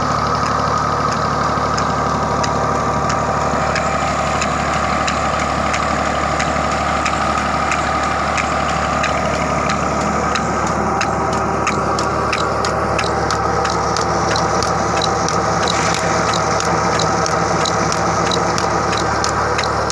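Tractor engine running at a steady speed while it drives a water pump on a deep borewell. A sharp, regular ticking joins it a few seconds in and comes about twice a second in the second half.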